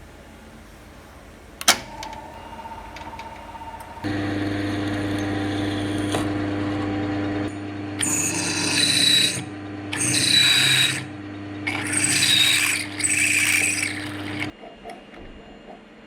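An electric power tool with a sharp click just before it, then the motor switching on about four seconds in and running steadily for about ten seconds. Four times it turns into a harsh, high-pitched grinding as the tool is pressed into the work, then it cuts off.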